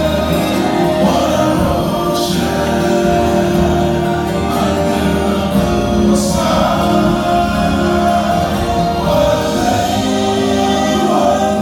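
Music with a choir singing long, held chords at a steady level.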